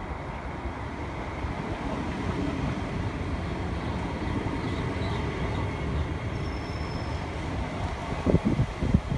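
Class 365 electric multiple unit rolling along the platform, a steady rumble of wheels on rail that slowly grows louder. A few sharp thumps come near the end.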